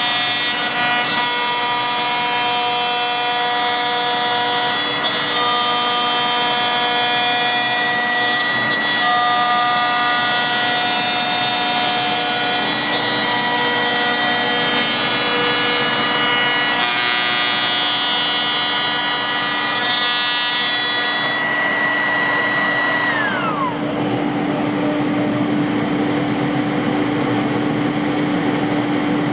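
CNC router spindle running with a steady, multi-tone whine while machining 21 mm multiplex plywood. About 23 seconds in, the high whine glides sharply down in pitch, and a lower steady hum carries on.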